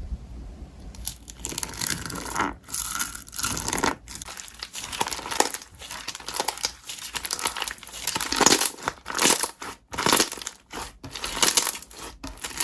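Slime being squeezed and stretched by hand, giving irregular crinkly crackling and popping with short pauses between squeezes.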